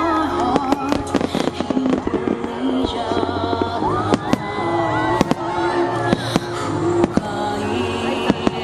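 Fireworks shells bursting and crackling in quick irregular succession, a dozen or more sharp bangs, over music playing throughout.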